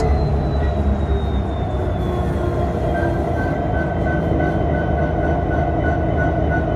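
Union Pacific SD70ACe diesel-electric locomotive's engine running steadily after start-up, a deep rumble with a high whine that slowly falls in pitch. A faint pulsing tone comes in about three seconds in.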